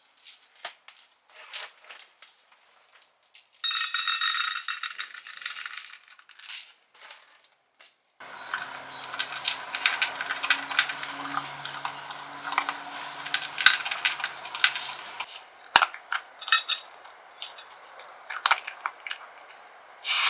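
Dishes and utensils clinking and clattering as they are handled. There is a harsh hiss for about two seconds near the start, then a longer stretch of steady hiss under the clinks in the middle.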